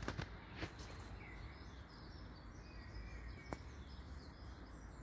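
Songbirds chirping in short, repeated calls over a faint, steady background rumble. A couple of sharp clicks come near the start and again about three and a half seconds in.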